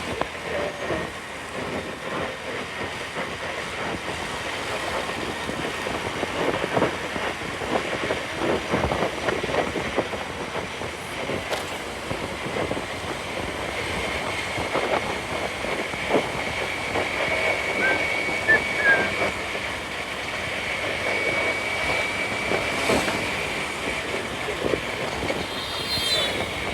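Riding noise from a scooter moving through city traffic: a steady rush of wind, road and engine noise with frequent small knocks and rattles. A thin, steady high whine runs through the middle for about ten seconds.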